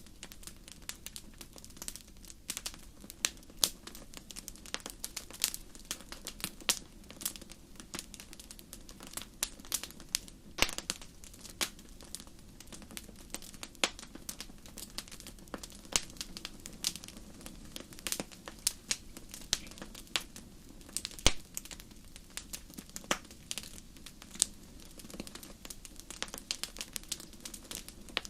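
Wood fire crackling: irregular sharp pops and snaps, a few louder, over a low steady hiss of burning.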